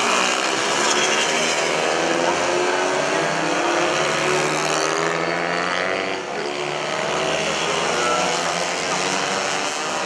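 Several small mini-bike racing engines revving hard on track. Their pitches climb and drop as the bikes shift, brake and pass, with several engines overlapping at once.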